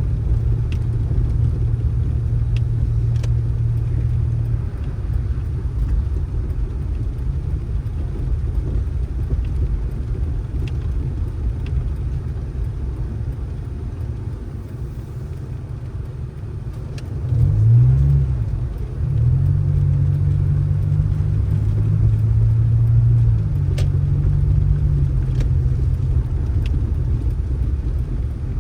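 Motor vehicle engine running with a low rumble. About 17 seconds in it revs, its pitch rising and falling, then it settles into a steady, higher drone.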